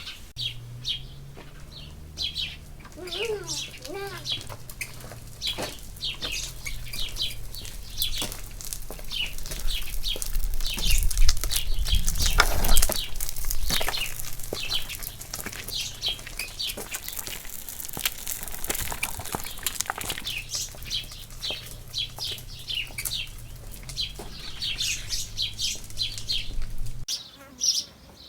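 Small birds chirping over and over, over a low steady hum that cuts off suddenly near the end; a louder rushing noise swells and fades in the middle.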